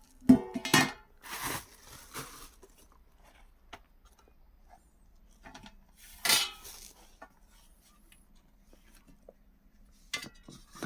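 Dishes and metal utensils clattering and clinking. There is a cluster of sharp knocks about half a second to two seconds in, another clatter about six seconds in and a light clink near the end.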